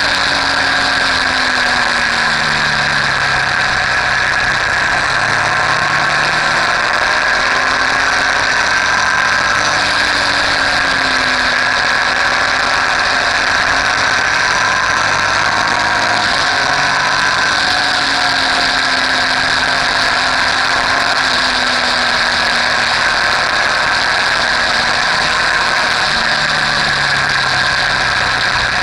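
Motorcycle engine running under way, its pitch rising and falling gently every few seconds as the speed changes, over a steady rushing noise.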